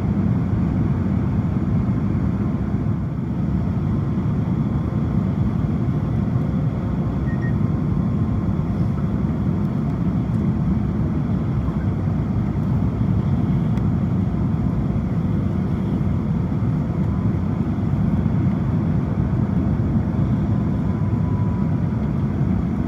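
Steady low rumble of cabin noise inside an Airbus A350-900 on final approach, from its Rolls-Royce Trent XWB engines and the airflow around the fuselage, with a few faint thin tones above it.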